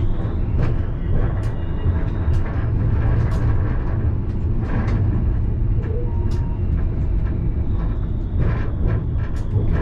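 Alstom Citadis tram running on the line, heard from the driver's cab: a steady low rumble with scattered clicks and knocks from the wheels on the rails.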